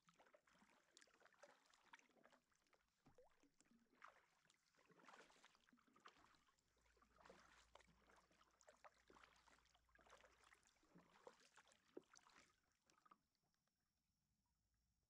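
Faint kayak paddle strokes: irregular splashes and drips of the blades dipping in the water, stopping about 13 seconds in.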